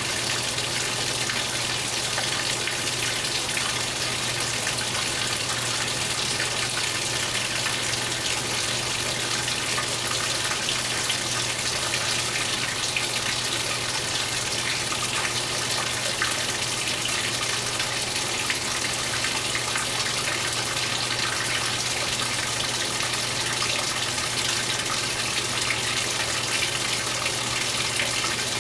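2015 Speed Queen 8 Series top-load washer filling its tub: a steady, unbroken gush of water with a constant low hum underneath.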